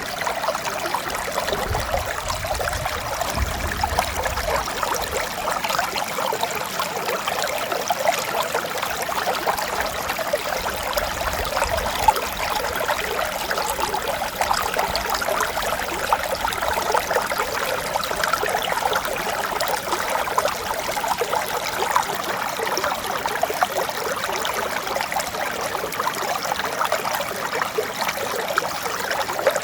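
Mountain stream flowing steadily with an even rush and trickle of water.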